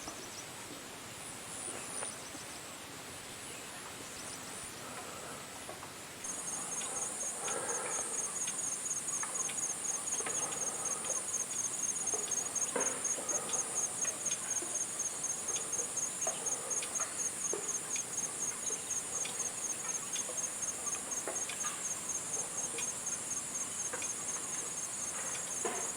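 Insect trilling at a high pitch, a steady chirr pulsing about four times a second, which comes in suddenly and loud about six seconds in after a fainter trill.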